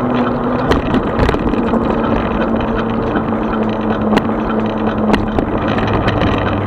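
36-volt electric bike riding along: a steady motor hum under wind and road noise, with a few sharp knocks from bumps.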